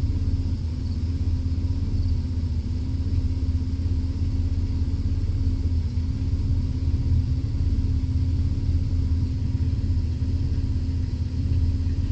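Steady low rumble with a constant hum above it, a car's engine idling.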